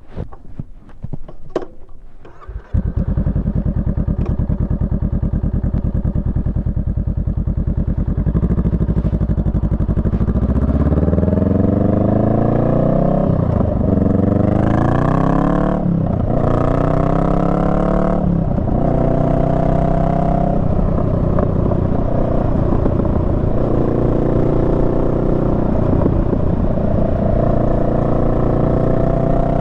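Honda Rebel 500's parallel-twin engine, after a few knocks, comes in abruptly about three seconds in and runs steadily at idle. From about ten seconds in the bike pulls away, the engine note rising and dropping back several times as it shifts up through the gears.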